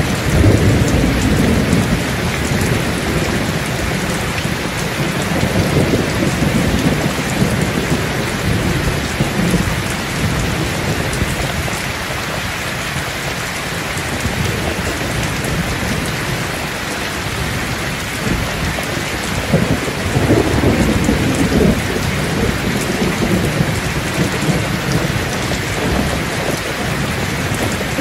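Heavy rain pouring steadily onto mud, puddles and standing water, a dense continuous hiss. Low swells of rumble rise and fall every several seconds beneath it.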